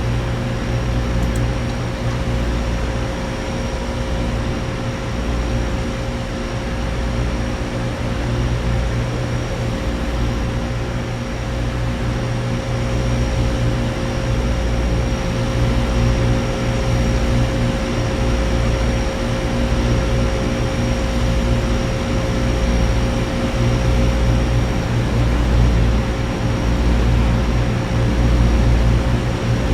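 Central air conditioner condenser units running: a steady compressor hum with a held mid-pitched tone under the even rush of the condenser fans.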